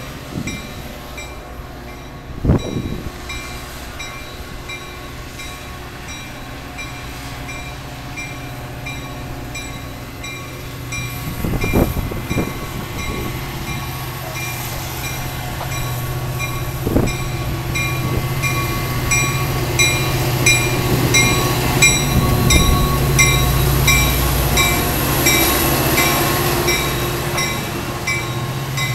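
Diesel locomotive pulling a commuter train with bilevel coaches as it approaches and passes, its engine drone and the rumble of the wheels growing steadily louder over the second half. A bell rings evenly about one and a half times a second throughout, and there are a few low thumps.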